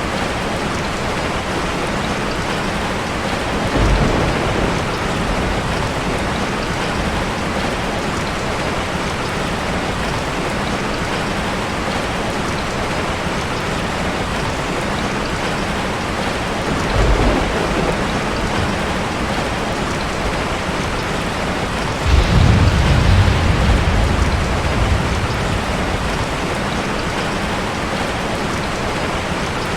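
Steady rain falling, with low thunder rumbling three times: brief rumbles about four seconds in and just past the middle, and a longer, louder one about three-quarters of the way through.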